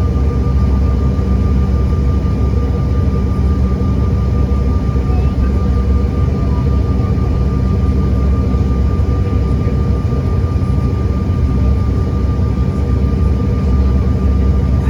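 Airliner engines running steadily, heard from inside the passenger cabin as a loud, even drone with a thin steady whine above it.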